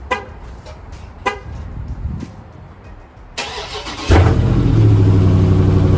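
Two sharp clicks, then about three and a half seconds in the starter cranks and a Dodge Scat Pack's 6.4-litre HEMI V8 fires on a cold start. It settles straight into a loud, steady idle on its factory exhaust.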